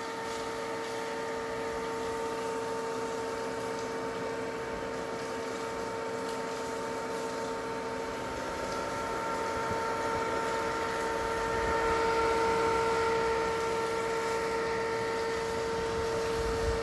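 Small DC cooling fans of a homemade Peltier-element mini fridge running, a steady whine over a rush of air. The noise is very loud.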